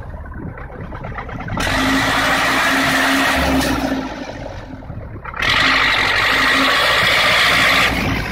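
A vehicle engine revving hard in two long surges, each of a few seconds, with a loud rushing noise, dropping back to a lower run between them.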